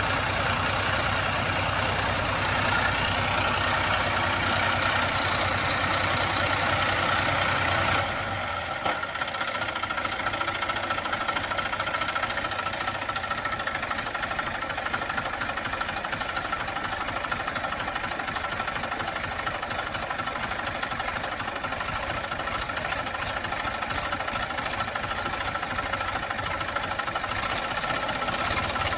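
Tractor engine running throughout; about eight seconds in it drops in level and loses much of its deep low end, then runs on steadily.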